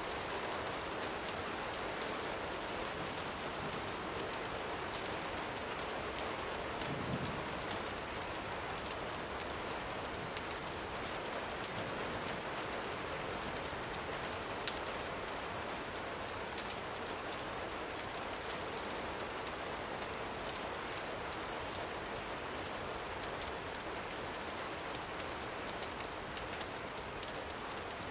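Steady gentle rain falling, an even hiss with scattered faint sharp ticks throughout. A brief low knock comes about seven seconds in.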